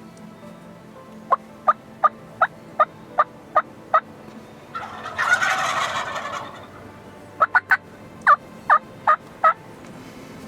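Wild turkeys calling: a run of eight evenly spaced yelps, then a wild turkey tom gobbling once, a rattling burst of about two seconds. Near the end come three quick clucks and four more yelps.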